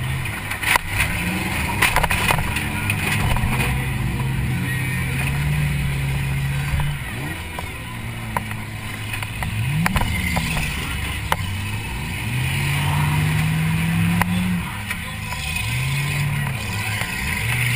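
Demolition derby car's engine, heard from inside the cabin, revving up and easing off over and over as the car is driven hard. Several sharp knocks and bangs come through over the engine.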